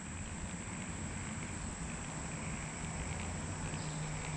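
Steady outdoor ambience: a continuous high-pitched insect drone over an even, low rushing hiss, with a steady low hum coming in about two seconds in.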